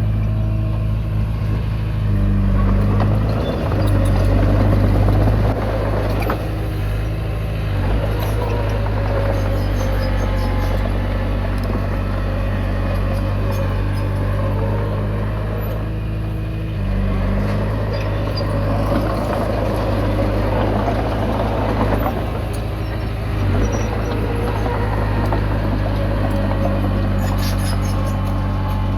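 Komatsu D20P bulldozer's diesel engine running steadily under load, its note swelling and easing a few times as it pushes soil.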